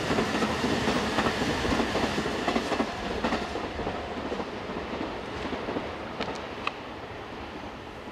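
Electric train running past on the rails, its sound slowly fading as it moves away.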